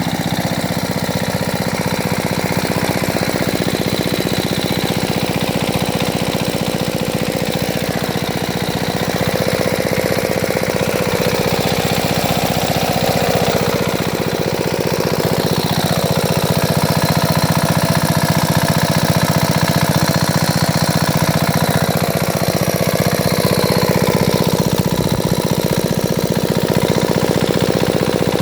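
Small 5 hp Chinese single-cylinder engine running steadily, with a rapid even chug of firing strokes; it gets slightly louder about halfway through.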